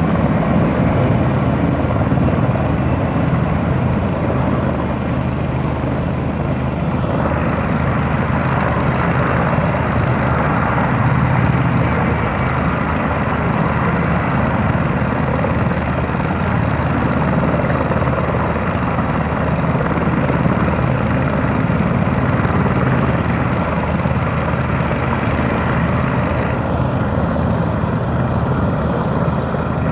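Erickson S-64 Air Crane helicopter running steadily: a continuous engine and rotor noise with a thin high turbine whine, which drops away near the end.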